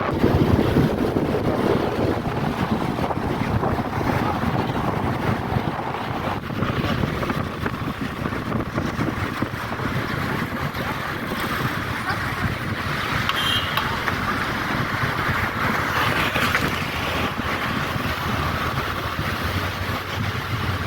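Steady wind buffeting the microphone over the continuous low rumble and water noise of a passenger ship.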